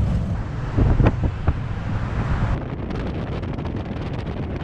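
Wind buffeting the microphone over the running noise of a moving tuk-tuk, with a few short sharp sounds about a second in.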